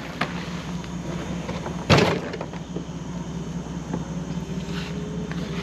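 Steady low hum of an idling motor, with one sharp knock about two seconds in.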